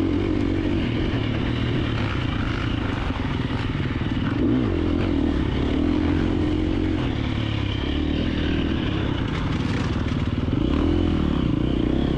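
KTM 350XC-F four-stroke single-cylinder dirt bike engine running under a rider's throttle, its revs rising and falling repeatedly as the bike picks its way through tight trail.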